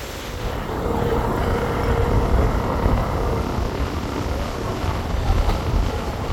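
A car driving, heard from inside the cabin: a steady low engine and road rumble that grows a little louder about a second in.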